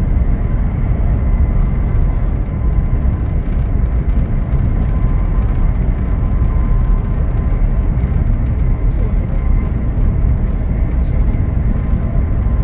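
Steady rumble and rush of a high-speed train running at speed, heard from inside the passenger carriage, with a faint steady high whine over it.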